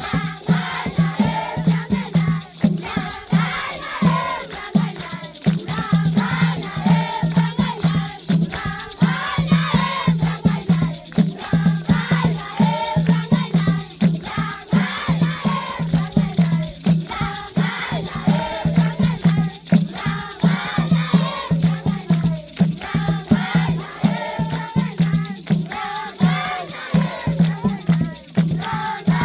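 A group of voices singing together in chorus, with rattles shaken to a quick, steady beat, as the music for a traditional African rain dance.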